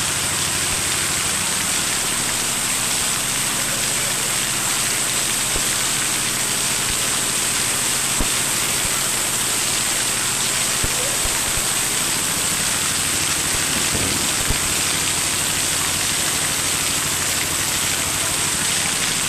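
Heavy rain pouring down in a steady, loud hiss, with a few brief knocks.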